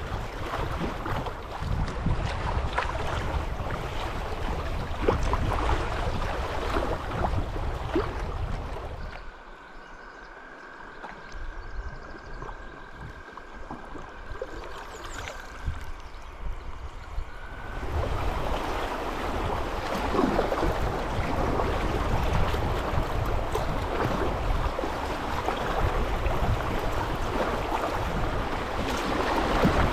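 Water rushing around a kayak on a river, with wind buffeting the microphone. About nine seconds in it drops to a quieter stretch in which a thin, steady high tone holds for several seconds, then the water and wind noise come back loud.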